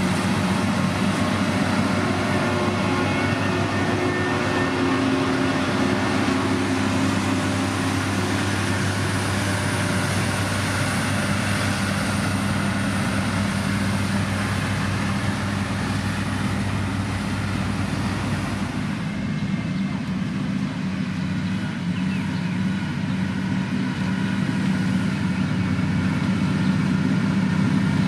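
Heavy motor grader's diesel engine running steadily, with a broad hiss over it that drops away about two-thirds of the way through.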